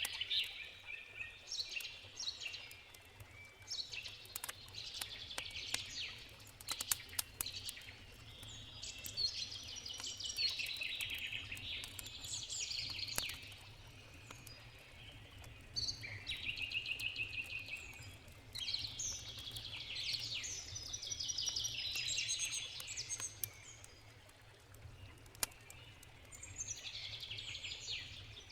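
Songbirds singing in trilled phrases, repeated every few seconds, with sharp crackles and pops from a campfire scattered through, over a steady low rumble.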